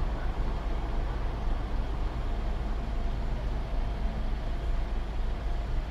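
Car engine idling steadily, heard from inside the car: a low, even rumble.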